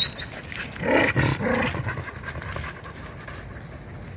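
A dog vocalizing briefly with a couple of short, rough growl-like sounds about a second in.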